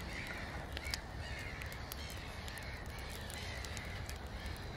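Faint outdoor ambience of birds calling: short arched calls repeating over a low steady rumble, with scattered soft clicks.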